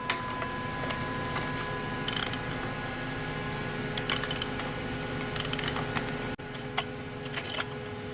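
Ratchet wrench clicking in several short bursts, working the flywheel gland nut on a Porsche 912 flat-four engine, over a steady shop hum.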